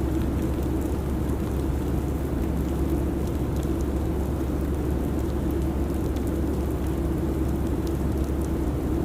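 Airliner cabin ambience: a steady, even jet-cabin drone with a low hum, with faint scattered ticks throughout.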